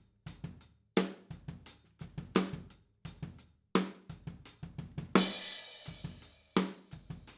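Acoustic drum kit playing a beat, heard through an XY pair of Neumann KM184 small-diaphragm condenser overhead microphones. A cymbal crash rings out a little over five seconds in.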